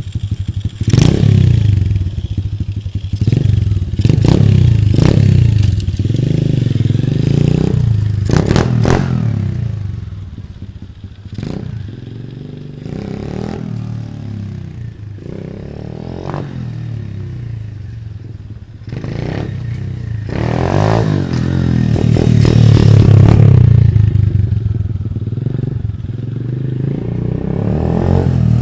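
A 2009 SSR 125 pit bike's four-stroke single-cylinder engine being ridden, revving up and easing off again and again. It runs at lower revs and more quietly through the middle, then revs up hard and loud near the end.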